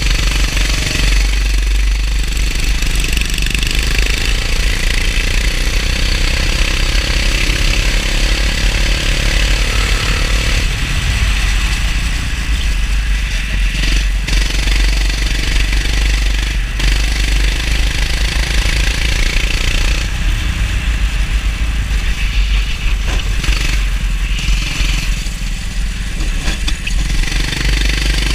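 Go-kart engine running on track, with its speed rising and falling, under a heavy low rumble.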